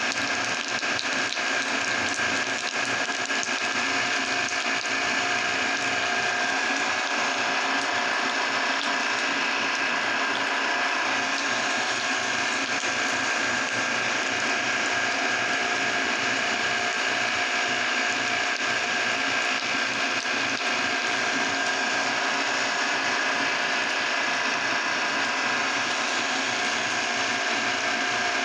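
Electric meat grinder running steadily, its motor and gears whirring and clattering as it grinds jelly candies.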